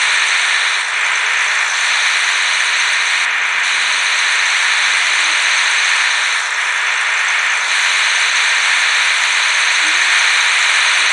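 A small high-speed electric motor running with a steady high-pitched whir and hiss.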